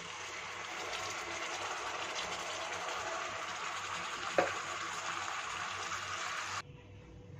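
Wet ground tomato-coconut masala paste sizzling in hot oil and butter in an aluminium pressure cooker, a steady hiss that cuts off suddenly near the end. A single short knock about four seconds in.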